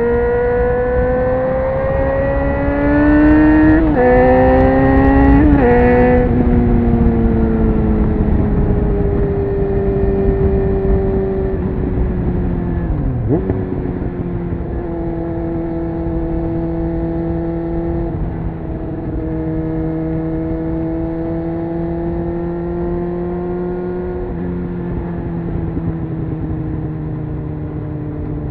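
Honda CBR600F inline-four engine pulling hard, the revs climbing and dropping twice in quick upshifts within the first six seconds. It then eases off with a short rev blip on a downshift and settles to steady cruising revs with a couple more gear changes. Wind rush sounds underneath.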